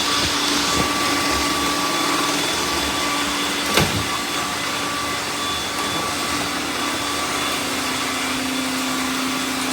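Several robot vacuums running at once: a steady whir of fans and brushes with a few held motor tones, and a single knock about four seconds in.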